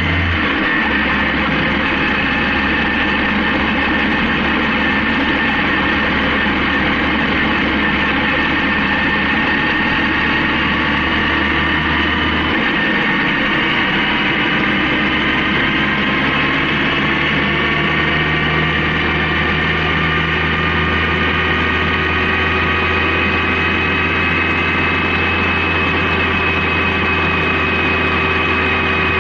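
Honda CB750K's inline-four engine running while riding, its pitch rising slowly and steadily as the bike gathers speed, after a brief drop in pitch right at the start.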